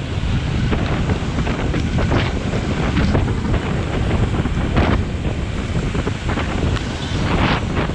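Wind buffeting the microphone in a steady low rumble, over the hiss of rain and wet road, with a few short hissing swells.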